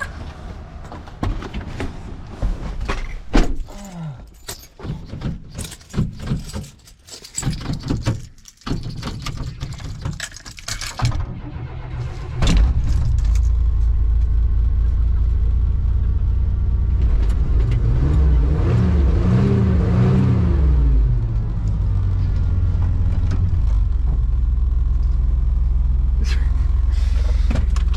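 Keys jangling and clicking as someone gets into a 1990s pickup truck, then its engine starts about twelve seconds in and idles steadily, with one brief rev that rises and falls near the middle of the idle.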